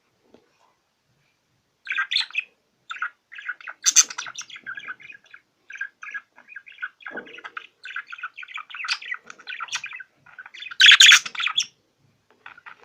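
Cage birds chirping and chattering in quick, dense strings of short notes, starting about two seconds in, with a louder burst near the end.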